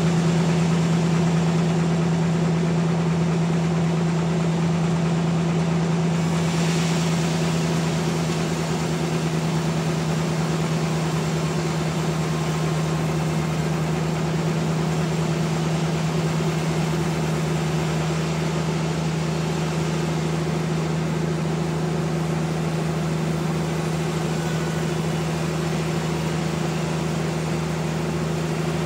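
Sawmill machinery running with a steady engine-like hum. There is a brief hiss about seven seconds in.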